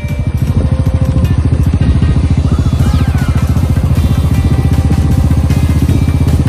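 Royal Enfield Bullet's single-cylinder four-stroke engine running with a steady, even beat of low exhaust pulses.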